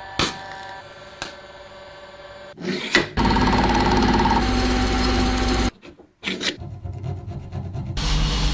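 Workshop tools working on rusty metal in short clips cut abruptly one after another: a steady hum with a click, then a louder rasping, grinding run, and after a brief gap more scraping near the end.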